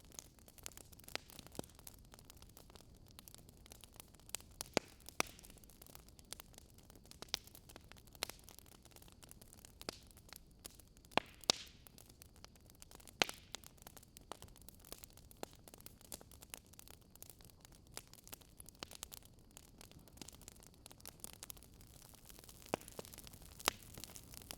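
Wood fire crackling: faint steady hiss with irregular sharp pops and crackles, a few louder pops scattered through.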